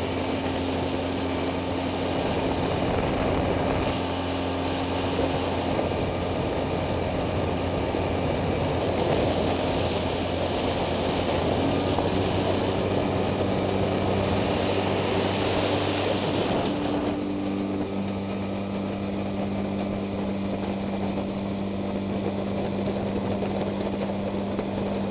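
Outboard motor running steadily as an Alumacraft aluminium boat moves under way, a constant engine drone over rushing water and wind. About 17 seconds in the higher rushing sound drops away and the engine note shifts.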